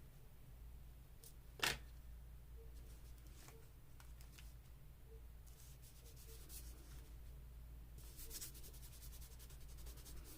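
Faint paper handling: soft rubbing and rustling of paper, with one sharp tap about two seconds in and a busier patch of small scratches and clicks near the end.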